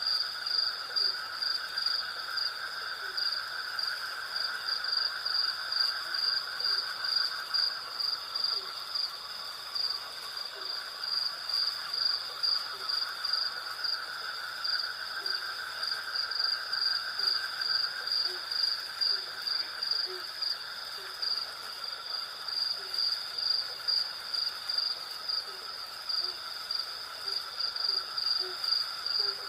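Night insect chorus of crickets and cicadas: a high, rapidly pulsing trill runs steadily, over a lower buzzing band that swells and fades every several seconds. Short, low, scattered calls sound in the background throughout.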